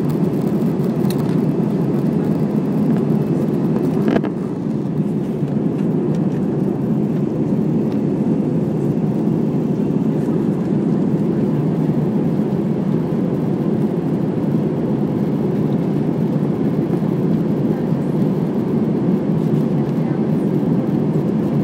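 Steady low cabin noise inside an Airbus A320 in flight, the engines and rushing air heard through the fuselage. A single click about four seconds in.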